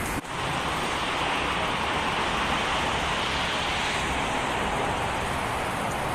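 Steady rushing noise of road traffic mixed with wind, after a brief dropout just after the start.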